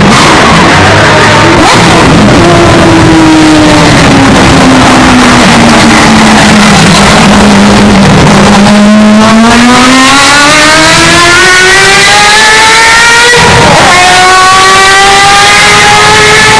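Historic Formula 1 race car engine, the audio boosted until it clips and distorts. Its pitch falls over the first several seconds as the car slows, then climbs steadily under acceleration, with an upshift about three-quarters of the way through and the pitch climbing again after it.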